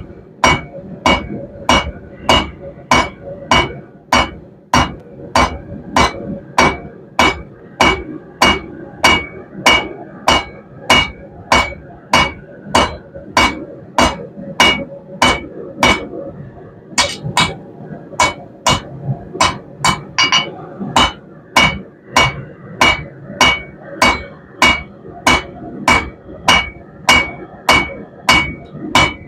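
Hand hammer striking hot 1/2 inch round steel stock on an anvil at a steady pace of a little under two blows a second, each blow ringing, drawing the bar out into a taper. There is one short pause about halfway through before the hammering resumes.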